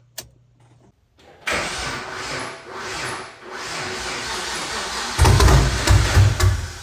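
2010 Chevrolet Camaro engine being restarted hot after a 20-mile drive, testing a new starter and heat blanket against heat-soak hard starting. A click, then a few seconds of cranking noise from about a second and a half in, and the engine fires loudly about five seconds in.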